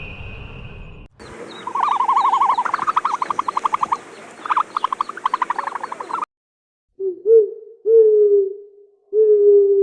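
Owl calls from two recordings. First come several runs of a fast, pulsing trill. Then, after a short break, three low hoots, the last one held longest.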